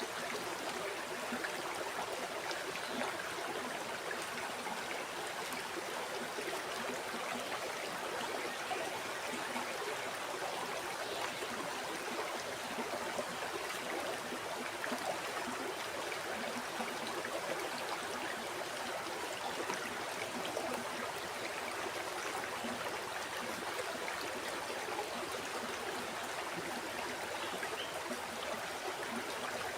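River water flowing steadily over rocks: a constant rushing babble with small splashes and gurgles throughout.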